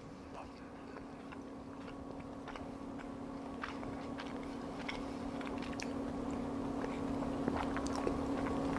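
A person chewing a mouthful of canned chicken, with faint scattered mouth clicks, over a steady low hum that grows slowly louder.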